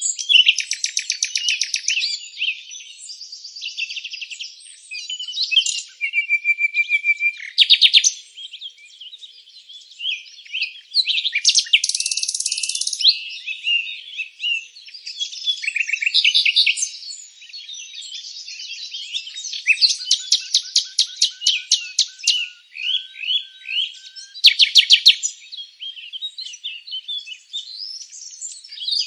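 Several songbirds singing and chirping over one another in a steady chorus, high-pitched, with fast trills breaking in every few seconds.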